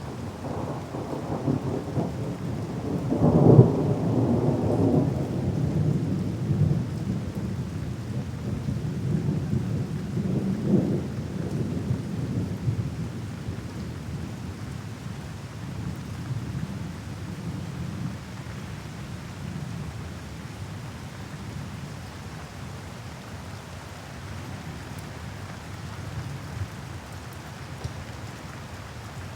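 Thunderstorm: steady rain hiss under rolling thunder, with a loud clap about three and a half seconds in and a smaller rumble near eleven seconds, fading into a long low grumble.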